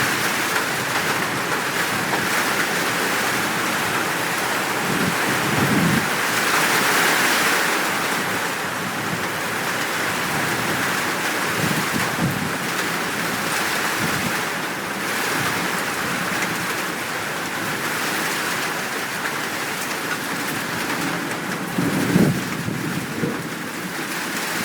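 Steady downpour of rain, with thunder rumbling low several times; the loudest rumble comes near the end.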